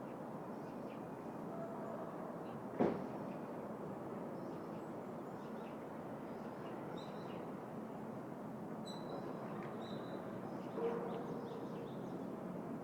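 Urban park ambience: a steady hum of distant city traffic, with a few short, high bird chirps in the second half and one sharp knock about three seconds in.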